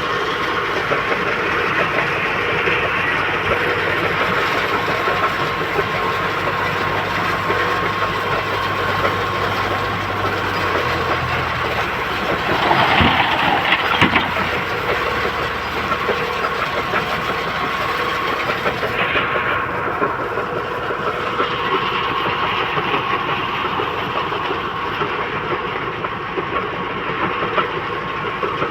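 Heavy diesel machinery running steadily, most likely the engine and hydraulics of a JCB 3DX backhoe loader, with a continuous mechanical clatter and a steady whine. There is a louder rush of noise about halfway through.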